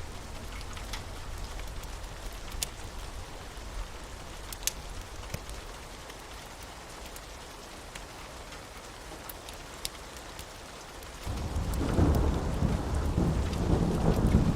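Thunderstorm ambience: steady rain with scattered sharp drip ticks, then a roll of thunder swells up suddenly near the end and keeps rumbling.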